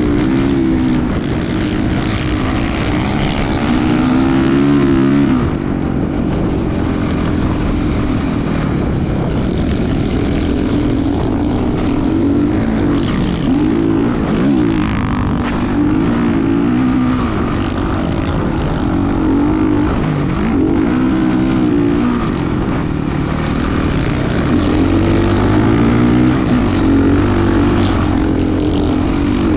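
Motocross dirt bike engine running and revving, its pitch rising and falling over and over as the throttle is opened and closed.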